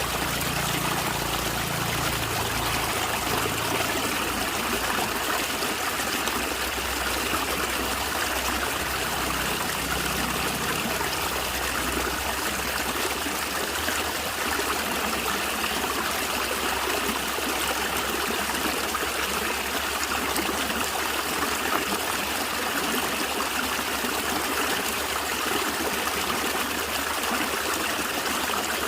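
A small stream of water trickling and gurgling steadily over stones.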